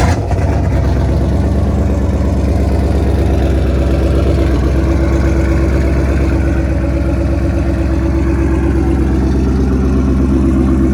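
A car engine catches and then idles loudly and steadily, close by.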